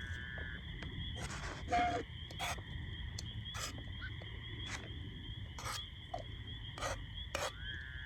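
Night chorus of insects and frogs: a steady, high, pulsing insect trill throughout, with a longer frog-like trill near 1.5 kHz at the start and again near the end. Scattered sharp pops and clicks run through it, with one louder burst just before two seconds in.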